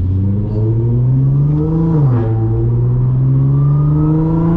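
Audi S4 B8.5's supercharged 3.0-litre V6 accelerating through an AWE exhaust with test pipes, rising in pitch, dropping sharply at an upshift about two seconds in, then climbing again, with the supercharger's whine over the exhaust note.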